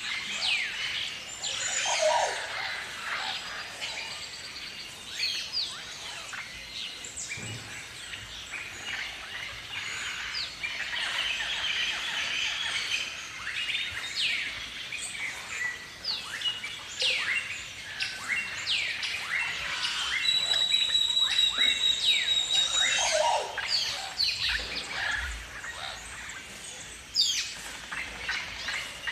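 A flock of galahs (rose-breasted cockatoos) calling: many short, high-pitched chirps and screeches overlapping throughout. A steady high whistled note is held for a couple of seconds about twenty seconds in.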